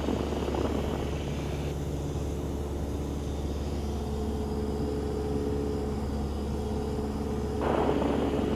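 Cessna 172's engine and propeller droning steadily in cruise, heard in the cabin. A brighter hiss lies over the drone for the first couple of seconds and comes back near the end.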